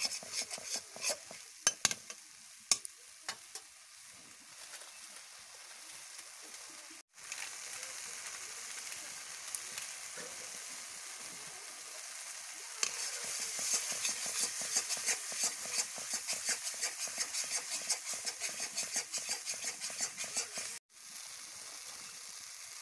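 Chicken pieces in spicy masala sizzling and crackling in a metal kadai, with a flat metal spatula scraping and knocking against the pan as it is stirred. The clicks of the spatula are sharpest in the first few seconds, and the sizzle grows louder and more crackly a little past halfway.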